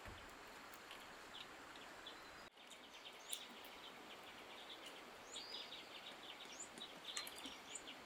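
Small birds chirping in quick short calls over a steady outdoor hiss, the chirps thickening after a brief dropout about two and a half seconds in.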